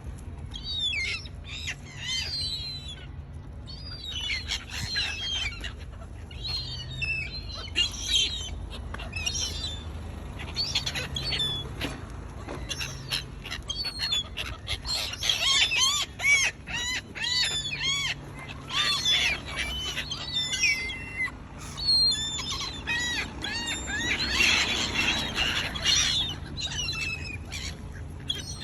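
A flock of gulls calling over and over, many short rising-and-falling cries overlapping, busiest about halfway through and again near the end.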